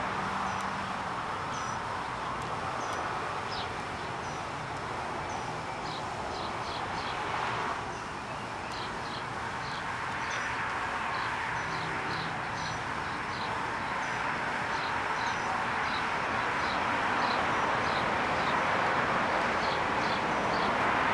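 Small birds chirping in quick repeated clusters of short high notes, over a steady rushing background noise that swells and eases slowly.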